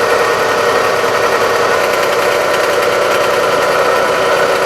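Dodge Avenger 2.4-litre four-cylinder engine running with a steady grinding noise from its belt drive, which the owner puts down mainly to a bad idler pulley, with the serpentine belt tensioner also noisy.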